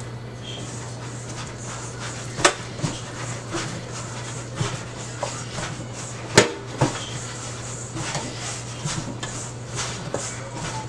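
Kitchen clatter: scattered knocks and clinks of dishes and utensils being handled, loudest in two sharp knocks about two and a half and about six seconds in, over a steady low hum.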